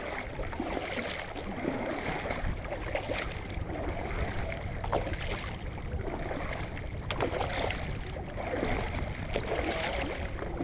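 Water splashing and lapping around a kayak in short irregular bursts, with a steady rumble of wind on the microphone.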